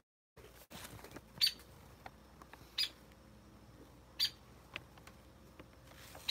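Short, sharp bird calls, one about every second and a half, each brief and high-pitched.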